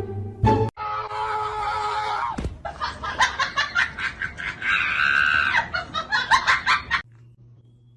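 A high-pitched scream, then laughter, cut off abruptly about seven seconds in.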